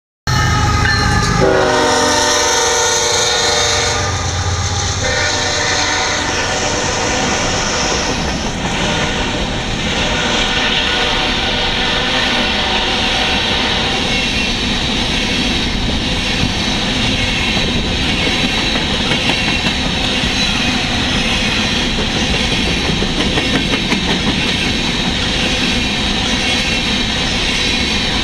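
A CSX diesel freight locomotive passing close by blows its horn twice in the first several seconds, then a long string of open-top hopper cars rolls past with steady, loud wheel-on-rail rumble and clickety-clack.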